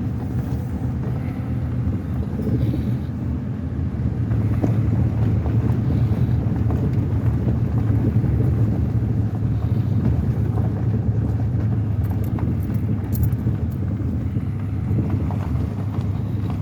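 Pickup truck driving slowly on a dirt road, heard from inside the cab: a steady low engine and tyre rumble.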